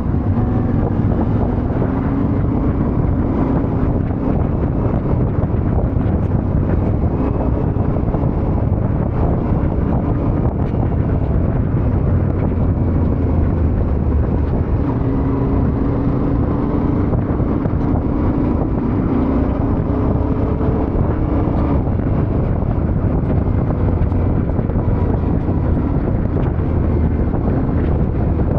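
Yamaha Ténéré 700's parallel-twin engine running while riding, its pitch drifting gently up and down as the revs change, with steady wind noise on the microphone.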